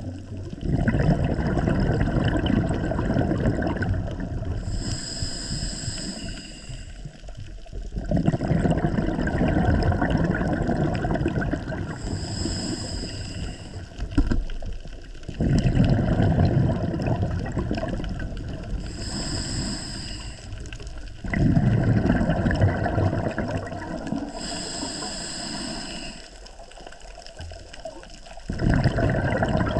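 A scuba diver breathing through a regulator underwater. Exhaled bubbles rush out in a loud burst about every seven seconds, and between the bursts the inhale draws a softer, high-pitched hiss through the regulator.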